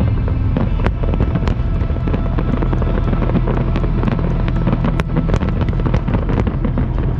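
Aerial fireworks going off in quick succession: many sharp cracks and pops over a steady low rumble.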